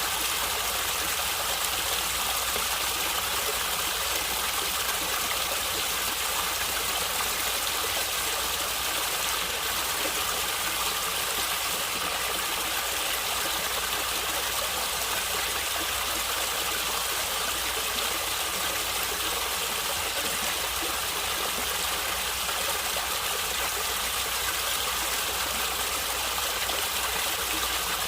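Stream water gurgling and flowing steadily, without breaks.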